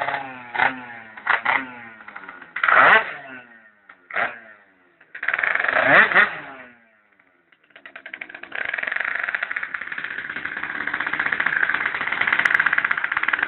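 Mitsubishi Lancer Evolution II's turbocharged four-cylinder engine through a Roost aftermarket exhaust, blipped in a series of short revs that rise and fall quickly. After a brief quiet gap about seven seconds in, the engine comes back and runs steadily with a rapid exhaust pulse.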